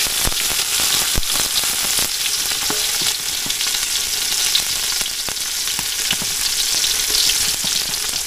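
Fish frying in a little hot oil over a low fire: a steady sizzle with scattered pops and crackles.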